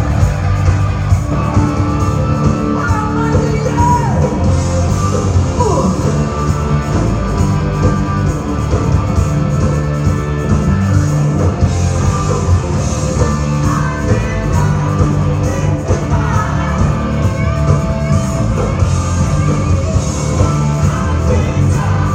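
Loud live rock music: a band playing with a singer, heard in a large room.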